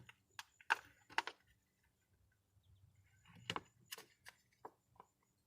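Scattered light clicks and taps of hands and a small tool working on the plastic and metal parts inside an opened car door, a few in the first second or so and another cluster around three to five seconds in.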